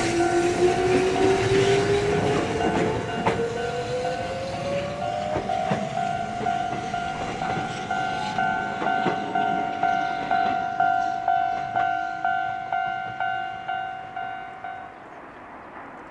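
Konan Railway 7000-series electric train pulling away, its motor whine rising steadily in pitch over the first several seconds over wheel clatter. A level crossing alarm rings in a steady pulsing rhythm, then stops about a second before the end as the train recedes.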